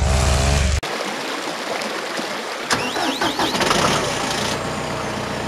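A motor engine running: a loud, steady deep hum that cuts off abruptly about a second in. It is followed by a rougher, noisier engine sound with a few brief wavering squeals near the middle.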